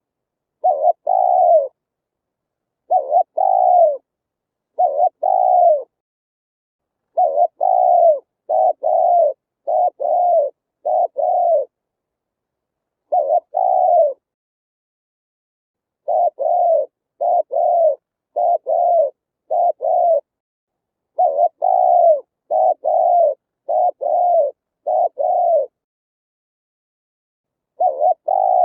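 Spotted dove cooing: phrase after phrase of short, low coos, each note sliding slightly down in pitch. The phrases are separated by clean silent gaps of one to two seconds.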